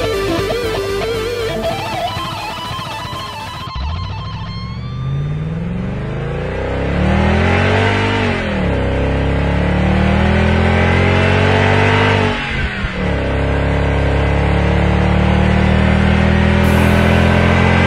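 Electric guitar music cuts off about four seconds in and gives way to a car engine accelerating. The engine rises in pitch, drops back at a gear change, then holds steady high revs with a brief dip partway through.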